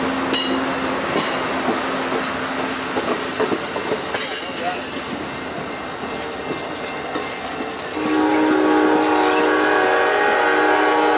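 Amtrak passenger cars rolling past with wheels clattering on the rail joints. About eight seconds in, a train's air horn sounds one long, loud blast of about three and a half seconds, the loudest sound here.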